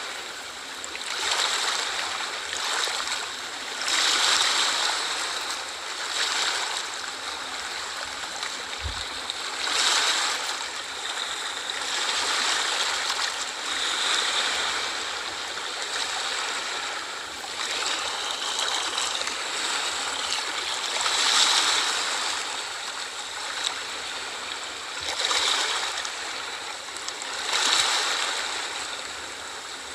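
Ocean waves washing onto a shore: a steady rush of surf that swells and falls back every four to seven seconds.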